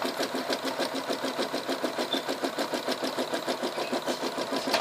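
Janome Memory Craft 9000 embroidery machine stitching out a design, its needle running in a fast, even rhythm.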